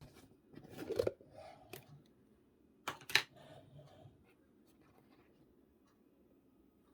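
Slime being handled by hand: sticky crackling and small clicks in two short clusters, about one second in and again about three seconds in, then only faint scattered ticks.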